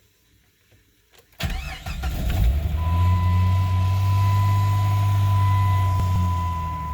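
A 1997 Jeep Grand Cherokee's 4.0-litre straight-six is cranked about a second and a half in, catches within a second and settles into a steady idle with the knock of piston slap, a common noise on these engines. A steady high tone runs alongside the idle.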